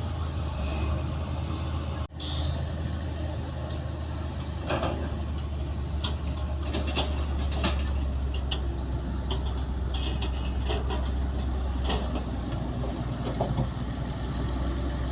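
Heavy diesel earthmoving machinery running steadily at a low drone, with scattered metallic clanks and squeaks. The sound cuts out sharply for an instant about two seconds in.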